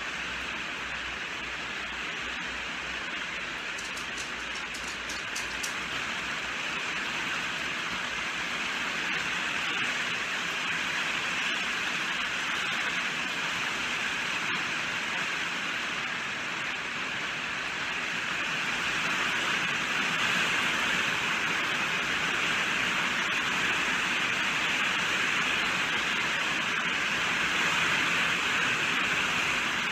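Heavy rain falling steadily: a dense, even hiss that gradually swells a little louder.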